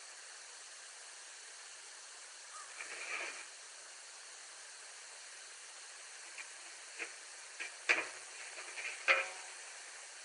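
Steady background hiss, with a brief higher-pitched sound about three seconds in and a few short sharp clicks and knocks in the second half.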